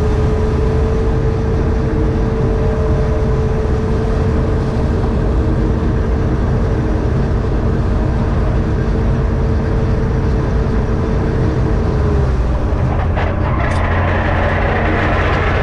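John Deere 4400 combine running steadily while harvesting soybeans: a deep engine drone with a steady whine that fades out about twelve seconds in, then a rushing hiss for the last couple of seconds.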